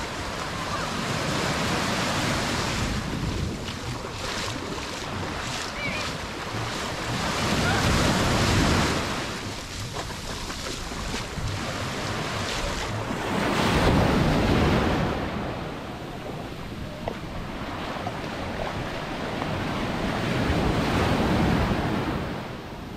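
Mediterranean sea waves breaking on a sandy beach, the surf swelling into a loud wash three times, roughly every six seconds, over a steady rush of water.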